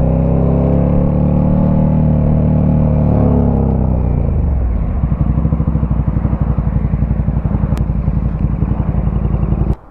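Motorcycle engine running at a steady speed, then falling in pitch to idle about four seconds in and idling with an even pulsing beat; it cuts off suddenly near the end.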